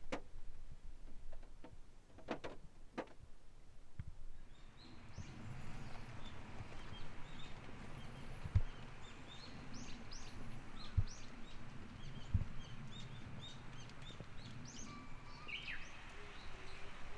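Night chorus of calling insects: many short, high chirps over a steady outdoor hum, starting a few seconds in. There are a few sharp clicks before it and three brief low thumps during it.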